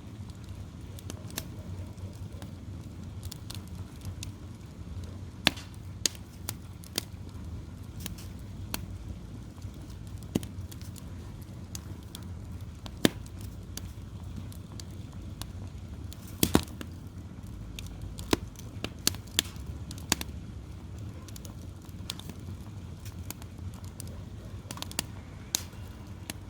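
Firewood fire crackling, with irregular sharp pops, a few much louder than the rest, over a steady low rumble.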